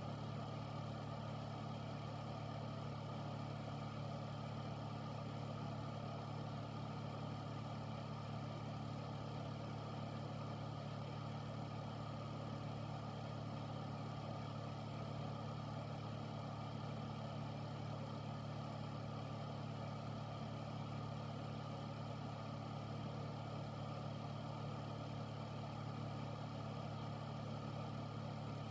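Air filter (air purifier) running steadily: a constant fan whoosh over a low motor hum.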